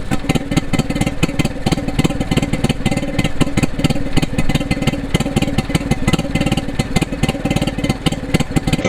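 1950s Stuart P55MR twin-cylinder two-stroke marine engine running steadily, with a fast, even firing beat.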